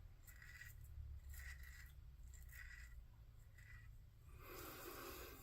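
Merkur 34C double-edge safety razor with an Astra blade scraping through lathered stubble, faint short strokes about once a second, with a longer rasping pass near the end.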